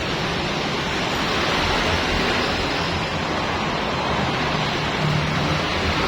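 Motor-driven washing machine running steadily with a continuous hiss of spraying water and a low motor hum underneath.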